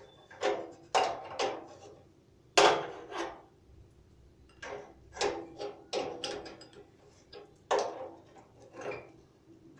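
Hand tools knocking and clinking against the metal parts of a gas water heater as it is tightened and closed up. About a dozen irregular strikes, each with a short ring, the loudest about two and a half seconds in.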